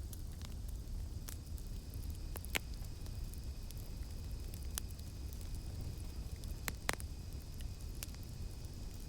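Campfire crackling, with irregular sharp pops over a steady low rumble of the flames. The two loudest pops come about two and a half seconds in and near seven seconds. A faint, steady, high insect drone of cicadas runs behind it.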